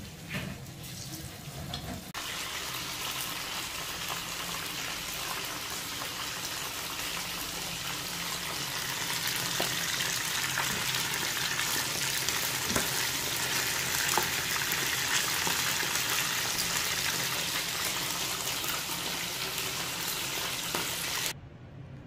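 Cornflour-coated, marinated chicken pieces deep-frying in hot oil, a steady sizzle with scattered pops. It grows louder about two seconds in, when the pan is full of pieces, and cuts off suddenly near the end.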